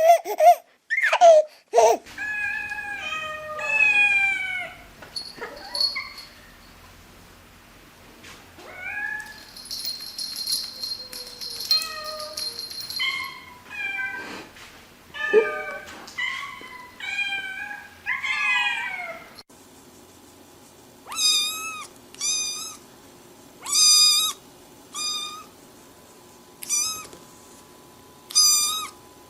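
Cats meowing over and over, in separate calls that slide and bend in pitch. About twenty seconds in, short high-pitched meows follow one another at an even pace.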